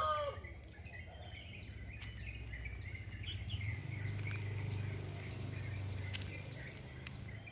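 Outdoor ambience: small birds chirping in short repeated calls over a steady low hum, with the tail of a rooster's crow fading out at the very start.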